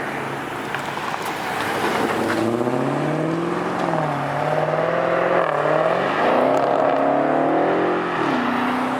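Dodge Hellcat's supercharged V8 accelerating hard. The engine pitch climbs about two seconds in, dips and climbs again a few times, then drops back to a steadier, lower note near the end.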